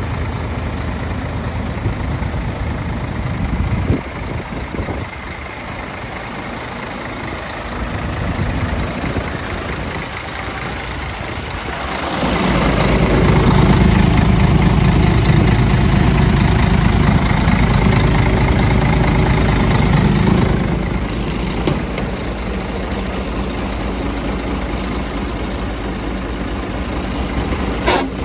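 Scania 124 360 truck's straight-six diesel engine idling. It grows clearly louder and heavier for about eight seconds in the middle, then settles back.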